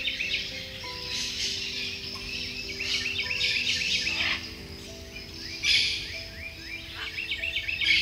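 Rainforest birds chirping in quick trilled series, layered over soft music of long held notes and a low steady rush of background noise.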